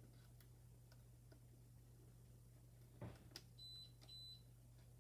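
Near silence over a low steady hum; about three seconds in a soft knock, then two short high-pitched electronic beeps about half a second apart.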